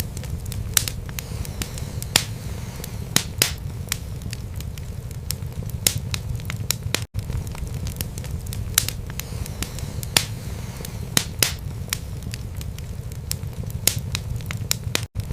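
Wood fire burning in a fireplace: a steady low rumble of flames with sharp, irregular crackles and pops from the burning logs. The sound cuts out for an instant twice, about seven seconds in and near the end.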